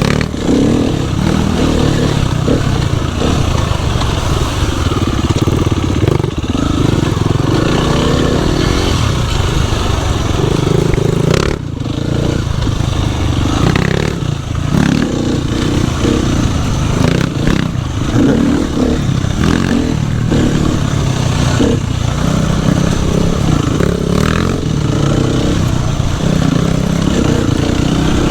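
Dirt bike engine running under load as it is ridden, its revs rising and falling continually, with a few brief knocks and clatters.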